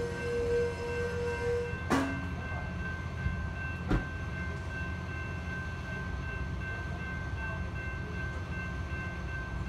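Distant train out of view: a steady low rumble with a single steady tone that stops about two seconds in, and two sharp clicks about two and four seconds in.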